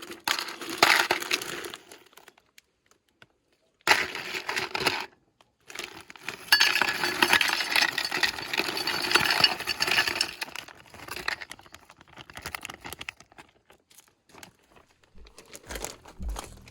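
Ice cubes clattering and clinking as they are tipped out. The clatter comes in bursts: a short one about a second in, another at about four seconds, and a longer one of about four seconds starting near six seconds, then scattered single clinks.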